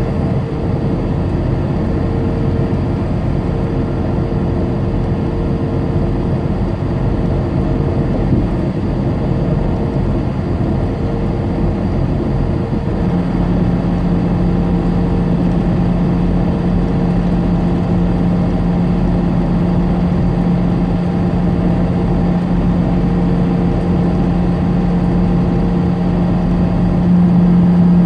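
Semi-truck driving at highway speed, heard inside the cab: steady engine drone and road noise. About halfway through a steady low hum comes in and holds, a little louder near the end.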